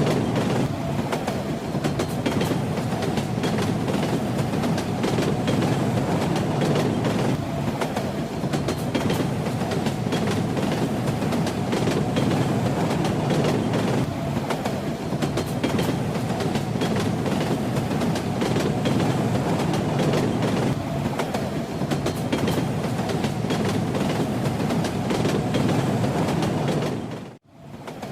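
Train running on rails: a steady rumble with the clickety-clack of wheels passing over rail joints. Near the end it dips to almost nothing for a moment and comes straight back.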